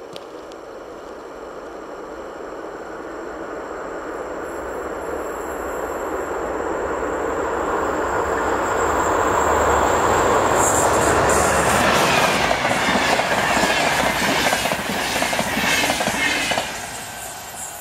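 VR InterCity train with double-deck coaches approaching and passing over a level crossing at speed. The rail noise builds steadily for about ten seconds, then comes loudest with rapid wheel clicks over the rail joints as the coaches go by, and falls away suddenly near the end as the last coach clears.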